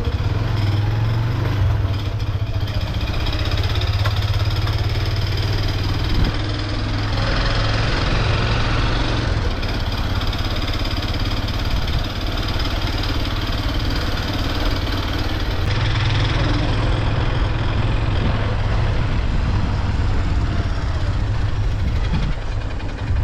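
Motorcycle engine running steadily while being ridden, with a continuous rushing noise from the ride.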